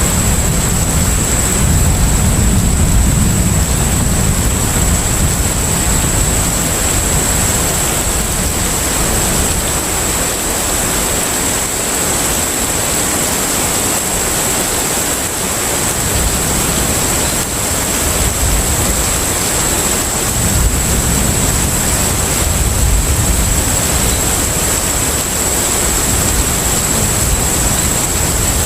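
Container ship at sea: a steady rushing of wind and water over a low engine rumble. The rumble eases off around the middle and swells back, and a thin, high, steady whine runs through it all.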